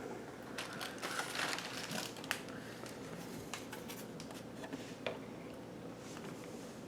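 Light handling noise: a rustling, crinkling stretch from about one to two seconds in, with a few sharp clicks, and another single click near five seconds.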